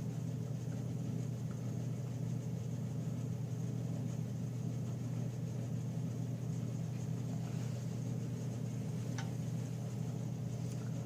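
Steady low hum of background machinery in a small workshop, even throughout, with a faint click about nine seconds in.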